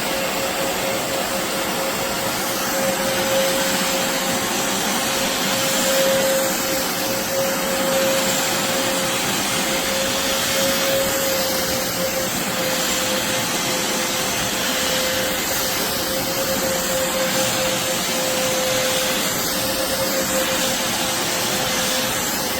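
BISSELL Revolution HydroSteam Pet carpet shampooer running steadily while vacuuming carpet: a constant rush of suction with a steady motor whine.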